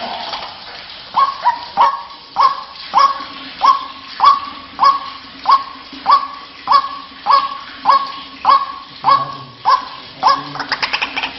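White-breasted waterhen calling, one short 'kru-ak' note repeated steadily about every half second. The calls come thicker and overlapping around the start and again near the end.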